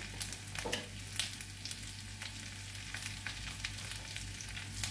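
Sabudana snack pieces and sliced onions sizzling in oil in a kadhai: a steady hiss with scattered crackles over a low steady hum.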